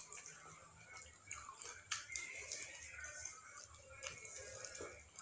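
Close-miked eating sounds: chewing and wet mouth smacks, with small clicks and crackles scattered through.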